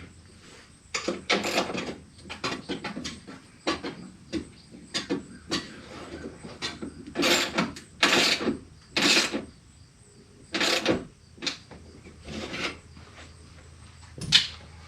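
A replacement power window regulator being worked into a pickup's door shell: irregular metal clanks, knocks and scrapes as the arm and its plastic guide block are pushed and pulled into place.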